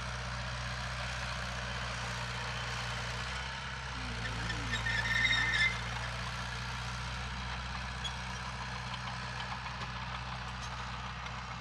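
Heavy diesel construction machinery running steadily with a low engine hum. About five seconds in, a brief high-pitched tone sounds over it for under a second.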